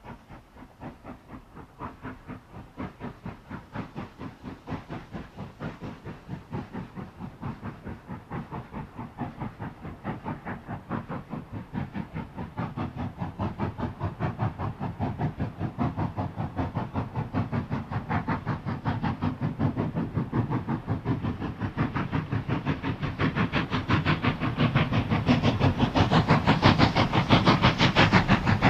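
Steam locomotive exhaust beats in a steady, even rhythm, growing steadily louder as the engine works towards the microphone.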